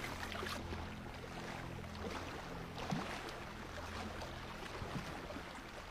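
Faint water sloshing and lapping with a few small splashes, over a low steady drone.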